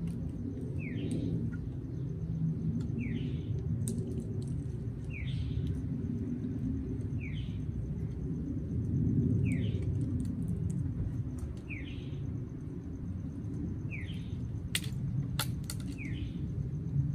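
A bird chirping a short rising note about every two seconds, over a steady low outdoor rumble. Near the end come two sharp cracks: pistachio shells splitting in an Amazon parrot's beak.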